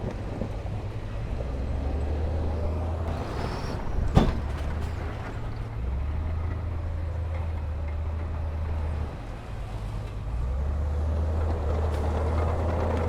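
Heavy diesel earthmoving machinery running under load, its engine note rising and falling, with a single sharp knock about four seconds in.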